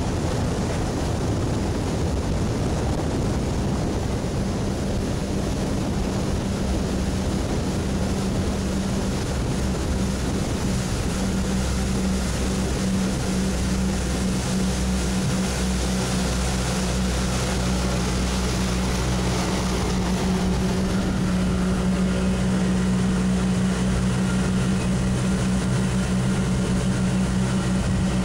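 Two-stroke boat engine running steadily underway during its break-in, kept below about 5,000 rpm, over a constant rush of wind and water. Its steady hum firms up about four seconds in.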